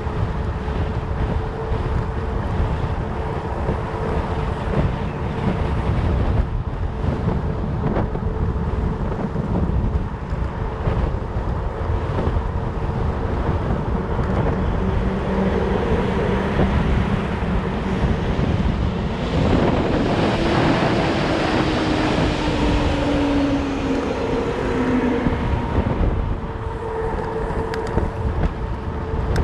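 Wind buffeting the microphone over the steady hum of fat bike tyres (4.4-inch Jumbo Jims) rolling. About twenty seconds in, a louder rush with a falling tone comes up and fades over several seconds.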